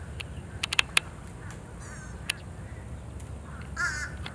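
Short nasal bird calls, one about two seconds in and a stronger one near the end, over a low steady rumble of distant traffic, with a few sharp clicks about a second in.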